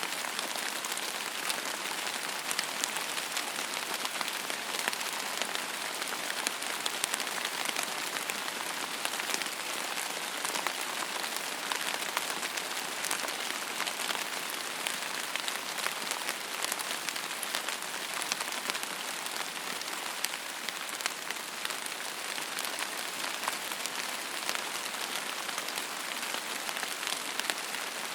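Steady rain falling on a hard surface, an even patter with many individual drop ticks.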